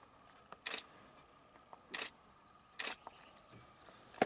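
Camera shutter clicking three times, roughly a second apart, over a faint steady background tone.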